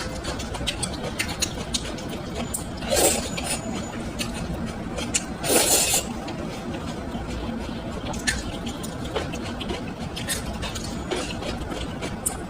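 Close-up eating sounds: chewing with many small clicks, and two louder, noisy bursts about three and six seconds in.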